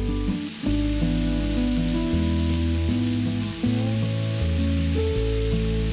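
Skewered chicken skin and frankfurters sizzling on a hot round griddle plate, with background music and its bass line playing under the sizzle.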